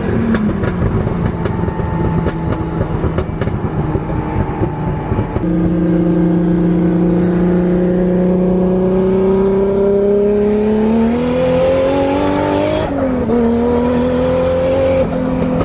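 2JZ inline-six in a Nissan 240SX under way: an uneven, choppy stretch of engine noise, then the engine pulling hard through a gear with its note climbing steadily for several seconds, dropping sharply at a gear shift and climbing again.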